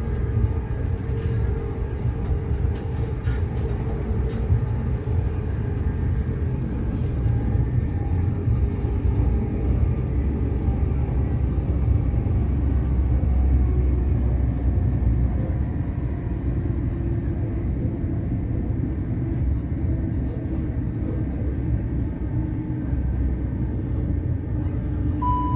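Steady low rumble of an electric passenger train running at speed, heard from inside the carriage, with a few faint clicks from the wheels on the track. A short two-note chime starts at the very end, the cue for an onboard announcement.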